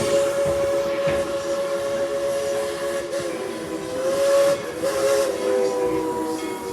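Whistle of Baldwin-built steam locomotive No. 12, blown in one long held blast whose pitch wavers a little twice, over a hiss of steam.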